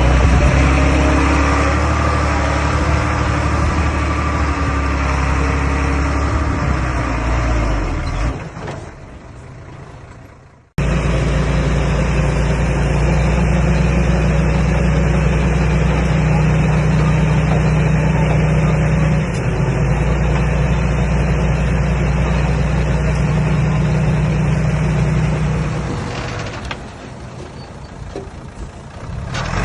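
Komatsu D21A bulldozer's diesel engine running steadily. It fades off and stops abruptly about ten seconds in, then comes back at once and runs on evenly, dropping away near the end.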